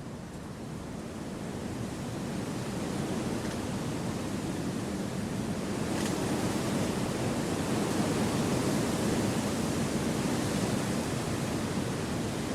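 Wind rushing through forest trees, a steady broad noise that swells over the first few seconds and then holds, with a faint tick about halfway through.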